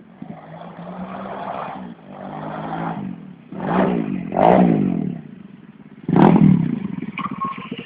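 Pit bike engine revving up and falling back in several surges. The loudest surges come about four seconds in and again just after six seconds.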